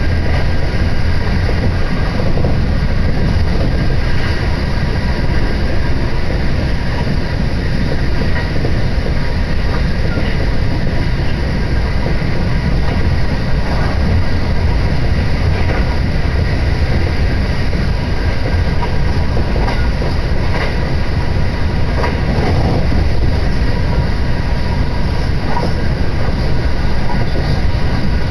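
Electric train running at speed, heard from inside the passenger car: a steady low rumble of wheels on rails with a faint steady whine above it.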